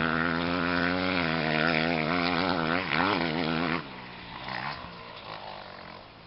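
A 2009 Yamaha YZ250F's four-stroke single-cylinder engine running, its pitch wavering with small throttle changes and dipping then climbing again just before three seconds in. About four seconds in it drops suddenly much quieter.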